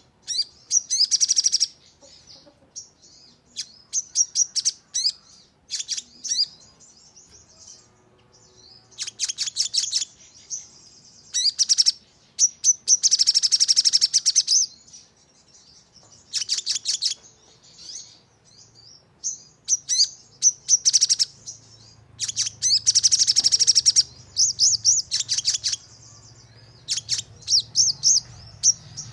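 Crimson sunbird (sogon) singing: high, sharp chirps in quick runs, broken by several dense rapid trills lasting a second or two. This is the fast 'nembak' (rapid-fire) song used as lure audio to set other sogon singing.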